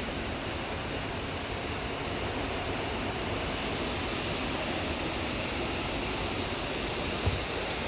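Steady rush of river water from the waterfalls, an even hiss-like roar with no break. A brief low thump comes near the end.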